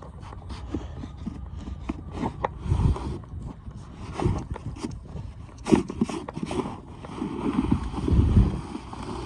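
Crunching in deep snow: irregular short crunches and scrapes, with heavier low rumbles about three seconds in and again near the end.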